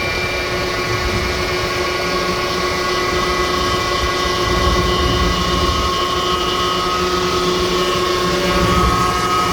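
Jet fuel truck's fuel pumps running under pressure: a steady mechanical drone with a low rumble and several held whining tones.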